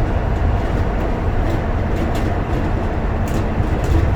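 Bus in motion heard from inside the passenger cabin: steady engine and road rumble with a few faint rattles.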